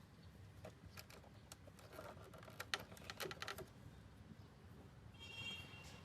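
Faint, scattered small clicks and light taps, densest in the middle, from hand work on a circuit board as a replacement fan-motor capacitor is fitted and soldered in.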